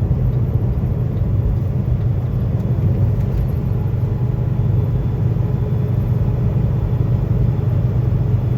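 Semi-truck engine and road noise heard from inside the cab: a steady low drone while the truck runs down a mountain grade in 8th gear.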